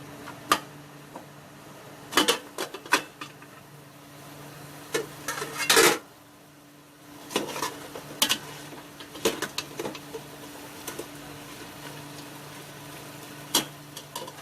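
A metal cooking utensil clinking and scraping against a cooking pot as chicken is stirred, in scattered bursts, over a low steady hum.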